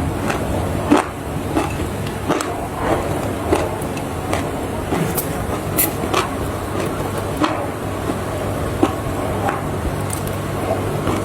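Dry clay crunching and crackling in short, scattered snaps, a few each second, over a steady low hum.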